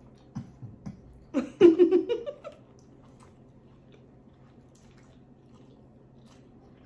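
A person chewing a bite of a spicy fried chicken sandwich, with a few soft mouth sounds near the start and a short louder burst of mouth noise with a brief hum-like vocal sound about a second and a half in.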